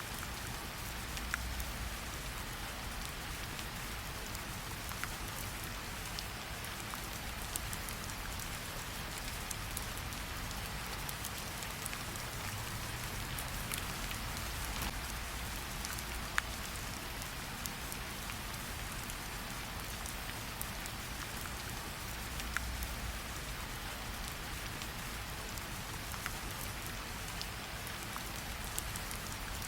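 Steady rain falling, an even hiss with scattered sharp ticks and now and then a soft low rumble.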